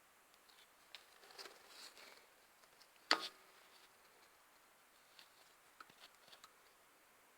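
Scattered light clicks and taps of metal parts and tools being handled, with one sharper metallic clink that rings briefly about three seconds in.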